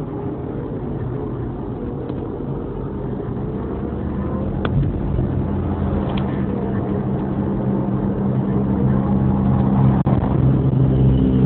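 Engine and road noise of a moving car, a steady low drone that grows slowly louder.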